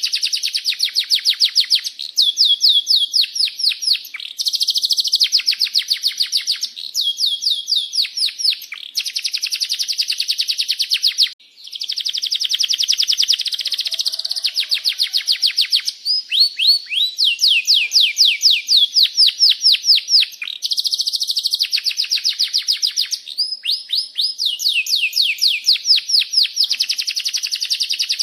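Domestic canary singing a long song of rapid rolling trills and repeated 'cuit cuit' chirps, the notes sweeping in quick runs, with one brief pause about eleven seconds in.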